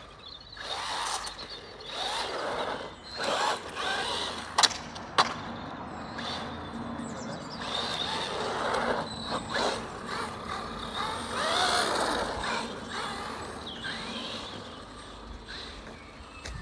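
Small electric radio-controlled cars driving on rough ground: motor whine rising and falling as they speed up and slow down, over the hiss of tyres. There are a couple of sharp knocks about four and five seconds in, from the cars bumping or landing.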